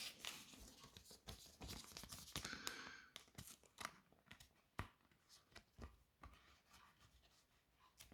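Faint rustling and light clicks of Pokémon trading cards being handled, cards sliding past one another for about three seconds, then only scattered soft taps.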